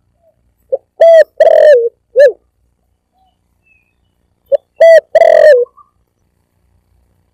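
Spotted dove (tekukur) cooing loudly, a recorded lure call. It comes in two phrases, about a second in and again halfway through, each a few short coos around one longer, drawn-out coo.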